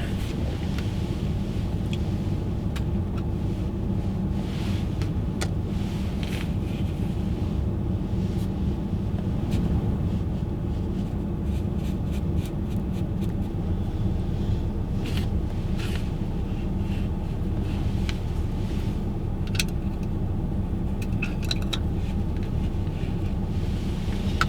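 Car driving at steady speed, heard from inside the cabin: a constant low road and engine rumble, with scattered light clicks and rattles.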